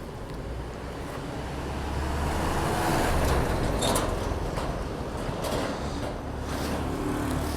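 Motorcycle engine and road noise while riding. The sound swells to its loudest about three seconds in, then eases off.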